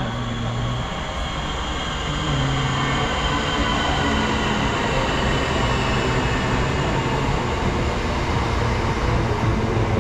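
Southeastern electric multiple-unit train running along the track beside the platform. Its rumble and wheel noise build after the first couple of seconds, with a steady motor hum and a faint high whine that slowly falls in pitch.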